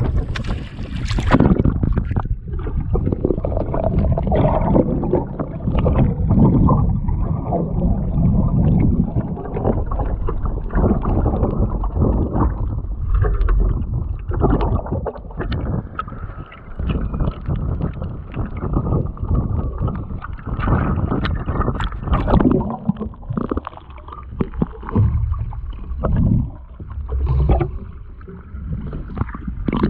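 Wind buffeting the camera microphone while water sloshes and splashes around it, muffled, with irregular splashes throughout.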